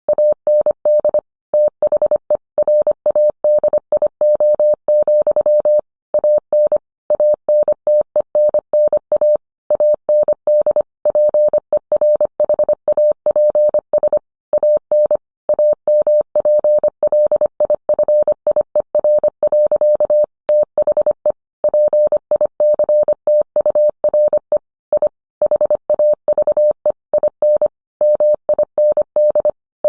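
Morse code sent as a single mid-pitched audio tone, keyed in quick dots and dashes with short gaps between characters and words at a steady sending speed.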